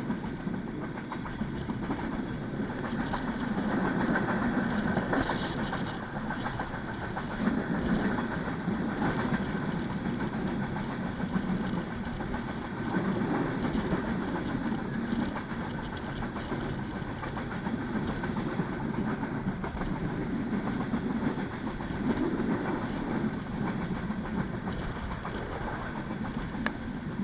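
Passenger train running along the track, heard from inside a carriage: a steady rumble of wheels on rails that swells and eases every few seconds.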